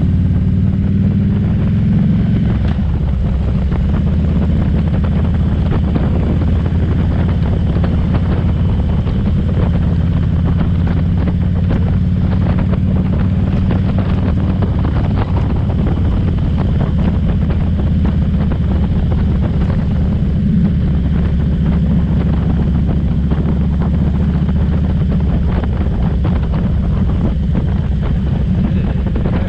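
Motorcycle engine running steadily while riding at a constant speed, with wind rushing over the microphone.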